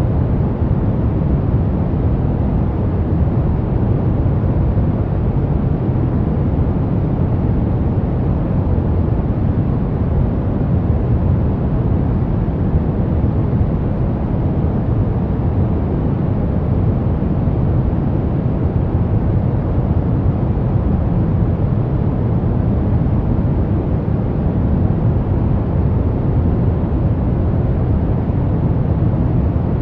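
Steady pink noise: a constant, even hiss weighted toward the low end, without change.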